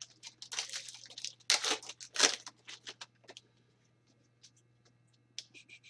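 A trading card pack wrapper being torn open and crinkled: a quick run of short rustling tears over the first three seconds, then a few faint crinkles.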